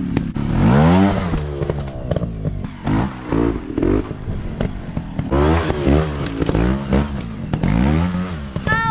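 Small dirt-bike engines revving in repeated throttle bursts, the pitch rising and falling about once a second, with some clatter.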